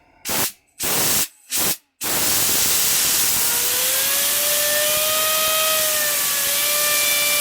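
Compressed-air blow gun hissing in four short blasts, then a continuous blast from about two seconds in, aimed at a computer-fan generator. A whine rises in about halfway through and holds steady as the fan blades spin up in the airstream.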